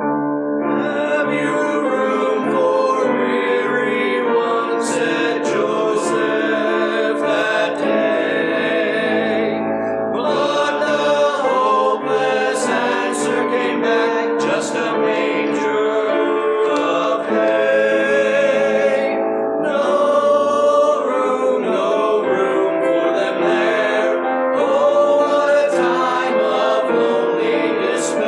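Choir singing with accompaniment in sustained phrases, pausing briefly about ten seconds in and again near twenty seconds.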